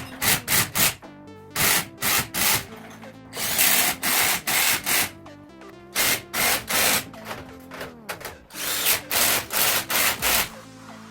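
Power drill run in repeated short bursts, about a dozen over several seconds, with background music underneath.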